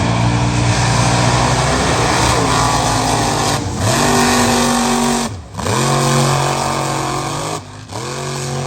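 Mega truck engine running hard at high revs, its pitch dropping and climbing again several times as the throttle is worked, with a few abrupt cuts in the sound.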